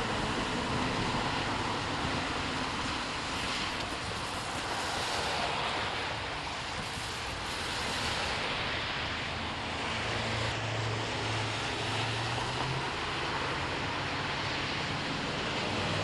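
Steady road traffic noise: a continuous hiss of vehicles and tyres, with an engine's low hum rising out of it for a few seconds past the middle.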